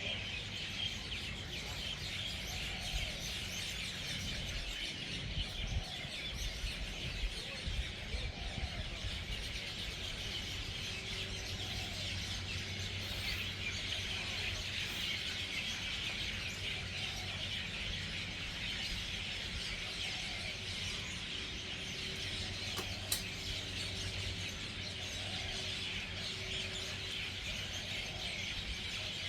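Dense, steady chorus of many birds chattering together as a flock settles into its evening roost, with a lower call repeating about every second and a half underneath.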